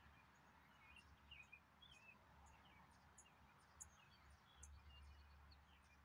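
Faint, high bird chirps: many short, scattered cheeps and twitters over a low background hum.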